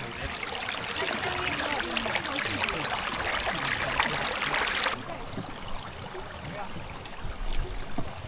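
Mountain stream water rushing with a steady hiss that stops abruptly about five seconds in, giving way to a quieter background with a few faint clicks.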